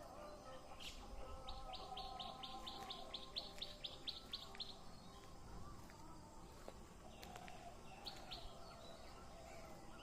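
Birds chirping: a quick run of about a dozen short, high, evenly spaced chirps, around four a second, starting a second or so in, and two more near the end, over softer, lower wavering calls.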